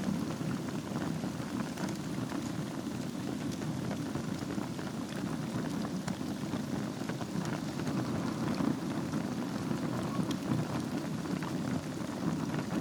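Wood fire burning in a fireplace over glowing embers: a steady low rushing noise with scattered small crackles and pops.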